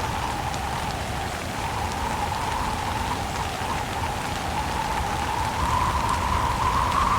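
Steady rain falling in a windstorm, an even rushing hiss with faint scattered drop ticks; it swells a little louder near the end.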